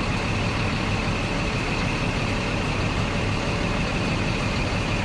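Old Scania truck's diesel engine running steadily, with a steady hiss of air as the tractor unit is lowered on its air suspension.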